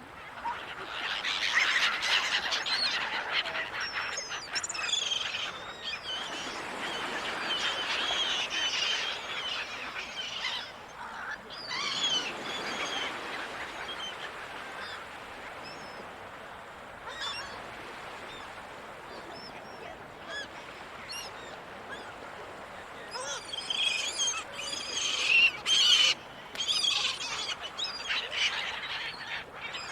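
A flock of gulls calling, many short cries overlapping, over a steady rushing background. The calling is densest near the start and again near the end, thinner in between.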